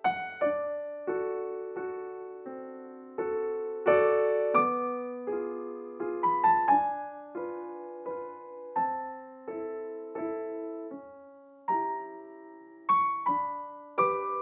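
Background piano music: a slow, gentle melody of single struck notes and chords, each ringing and fading.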